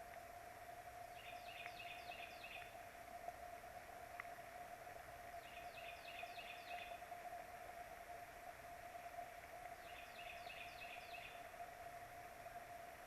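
A small songbird singing a short phrase of four or five quick downslurred whistles, repeated about every four seconds, faint over a steady electrical hum and a light hiss.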